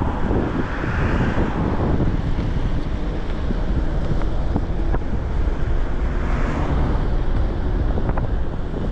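Strong wind buffeting the microphone of a moving e-bike, a steady low rumbling rush with a few faint ticks near the end.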